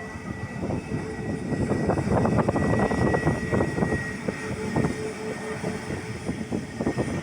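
Airliner's engines passing, a steady high whine over a broad rumble that swells about two seconds in and eases after about four seconds.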